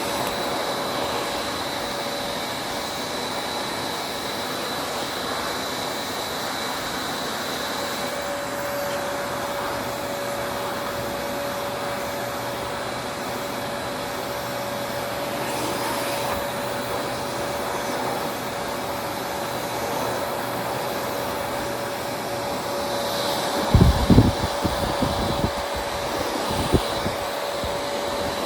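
Vacuum cleaner running steadily, its motor holding one constant whine. Near the end, a run of irregular low thumps and knocks joins in.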